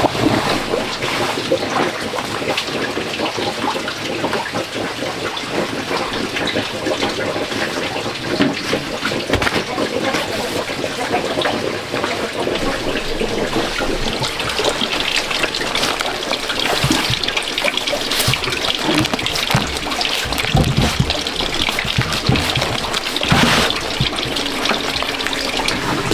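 Water trickling and splashing, with many small knocks scattered through it.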